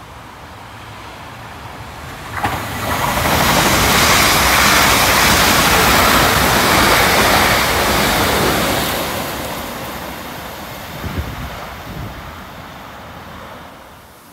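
Electric multiple-unit passenger train passing through the station without stopping: a loud rush of wheels on rail and air that rises about two seconds in, starting with a sharp knock, holds for several seconds, then fades away, with a couple of short knocks near the end.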